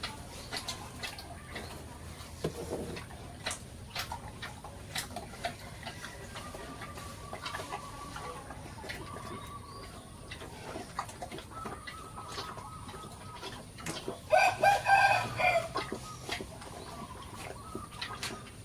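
Chickens clucking, with scattered sharp clicks and knocks. About fourteen seconds in, a rooster crows once, the loudest sound here.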